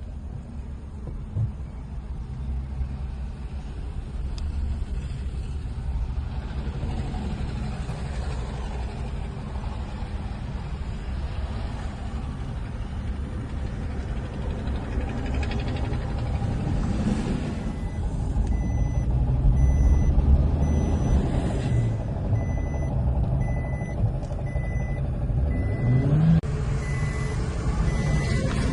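Car engine running with a steady low rumble. About two-thirds of the way in, a short high electronic beep starts repeating about one and a half times a second, and near the end the engine picks up revs.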